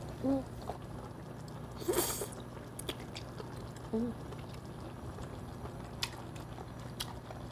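Close-miked chewing of tender, chewy cooked octopus, with small wet mouth clicks and a couple of short closed-mouth hums. There is a breathy sound about two seconds in.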